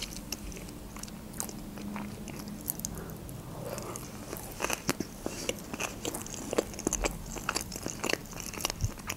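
Close-up chewing of a mouthful of sushi roll: many small, wet mouth clicks at an irregular pace.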